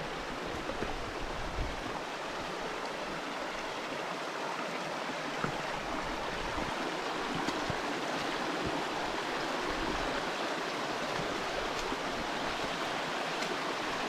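Woodland stream running over rocks, a steady rush of water that grows gradually louder, with a few faint clicks.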